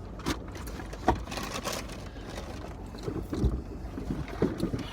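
Scattered rustles and a few short knocks from food packaging and drink cups being handled, over a steady low rumble.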